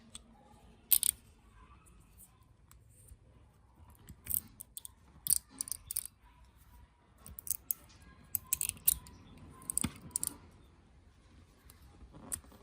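Irregular sharp clicks and snips of small hand tools, a dozen or so, the loudest about a second in.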